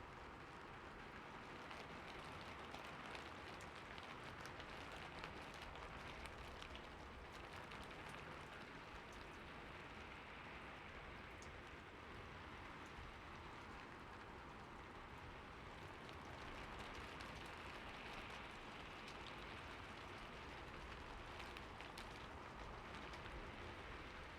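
Steady, soft rain falling, a constant hiss with scattered small drop ticks.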